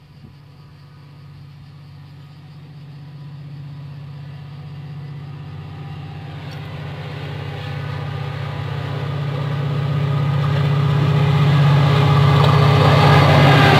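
A diesel locomotive approaching: its engine's steady low hum and the rumble of the train grow louder throughout, loudest near the end.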